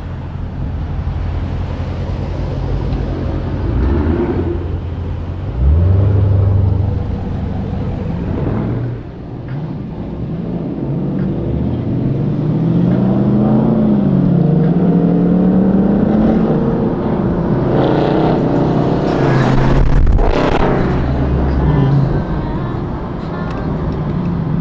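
Car engines running, with a steady low drone throughout. About halfway through, one engine revs up and down a couple of times.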